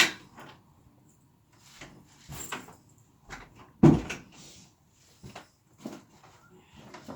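A series of knocks and thumps, like something being handled or shut: a sharp one at the very start, the loudest about four seconds in, and several lighter ones between and after.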